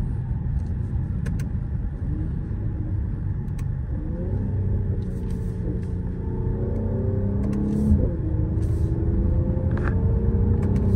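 Mercedes-AMG GLE 53's turbocharged inline-six, not in sport mode, heard from inside the cabin over a steady road rumble. About four seconds in, the engine pitch starts to climb as the car accelerates. It drops suddenly at an upshift around eight seconds in, then climbs again.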